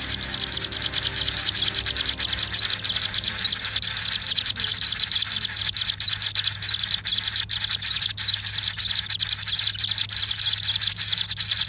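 Insect chorus: a dense, high, continuous chirring made of very rapid pulses, over a faint low hum.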